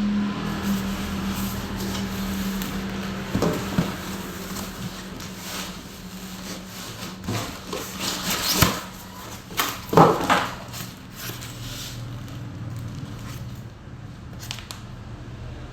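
Handling noise from unboxing a sack-sewing machine: irregular knocks, rubbing and rustling of the machine and its packaging, with the sharpest knocks about eight and a half and ten seconds in. A steady low hum is heard at the start and fades out within the first few seconds.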